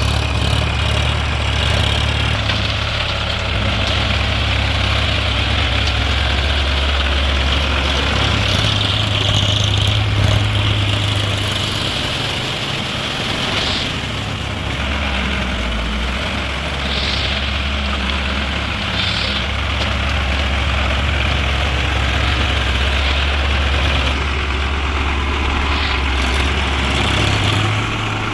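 Tractor diesel engine running steadily under load, its low drone rising and easing a few times.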